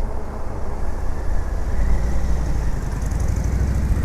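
Strong wind buffeting the microphone: a steady, low rumbling roar of wind noise.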